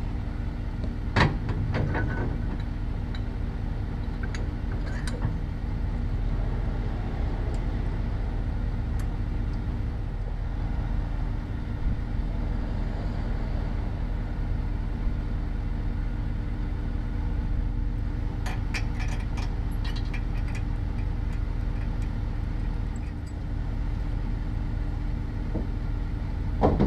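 Steady engine and road noise heard from inside a vehicle while driving, with a few light clicks about a second in and a short run of them about two-thirds of the way through.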